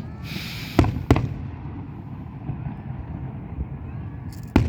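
Fireworks going off: a brief hiss, then two sharp bangs about a second in and another near the end, over steady background rumble.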